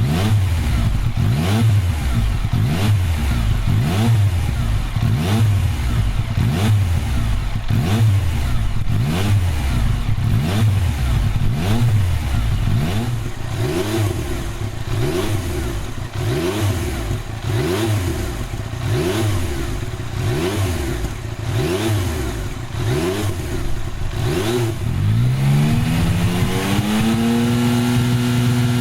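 Yamaha MT-09's inline-three engine through an OVER Racing TT-Formula titanium 3-into-1 full exhaust, revved in a quick series of short throttle blips. About 25 seconds in the revs climb smoothly and are held steady.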